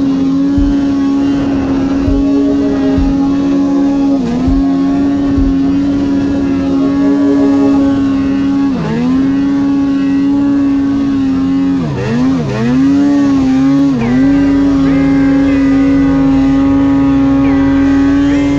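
Two-stroke mountain snowmobile engine held at high revs with a steady, high drone. The pitch dips briefly and comes back up about four and nine seconds in, and several times in quick succession around twelve to fourteen seconds in, as the throttle is eased and reapplied.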